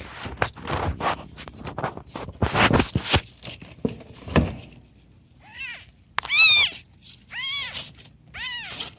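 Rustling and knocking handling noises, then a cat meowing four times about a second apart, each meow rising and falling in pitch, the second the loudest.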